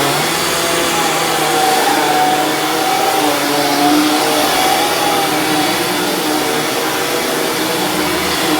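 Dirt Devil Ultra Vision Turbo upright vacuum cleaner running on carpet: a steady motor whine and airflow rush, its pitch wavering slightly as it is pushed back and forth.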